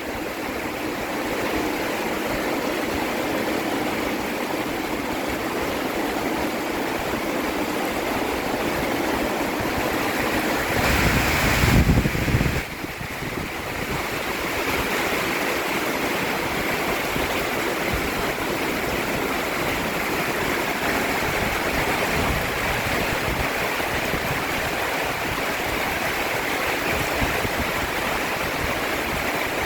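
Heavy rain falling and water running hard, a steady rushing noise that swells louder for about two seconds near the middle.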